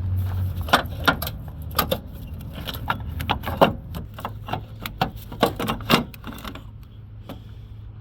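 A floor jack being pumped under the engine, a run of irregular metal clicks and clunks about twice a second that stops near the end, raising the engine slightly to take weight off the mount.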